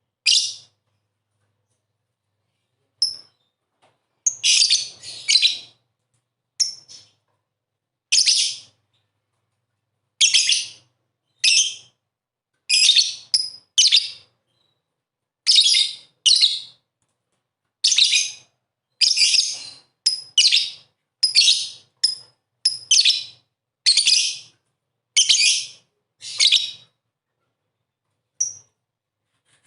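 Lovebird giving short, shrill, piercing chirps in quick bursts, about one every second, with dead silence between them. This is the kind of recording played to a lovebird that is reluctant to sing, to get it calling.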